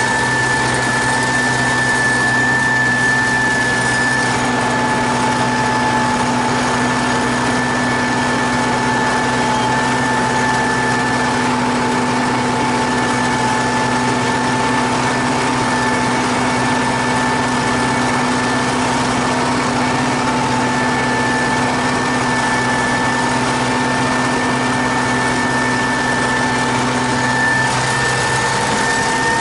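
T-150K wheeled tractor running at a steady working speed: an even engine drone with a steady high-pitched whine over it, whose pitch begins to drop right at the end.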